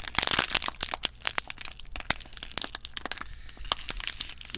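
Plastic wrapper being crinkled and torn open: a dense run of crackles, loudest in the first second and thinning out toward the end.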